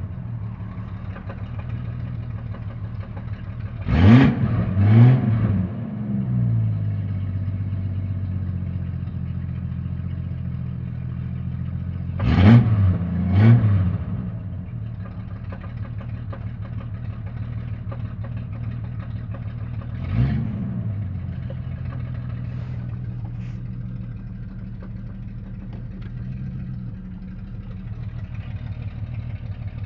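Jeep Cherokee XJ 4.0 High Output inline-six idling, blipped to a quick rev five times: two about 4 s in, two about 12 s in and one about 20 s in. It carries an engine noise that the owner traced to the torque converter.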